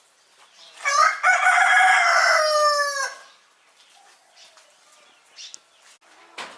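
A rooster crowing once, one long call of about two seconds that drops in pitch at the end.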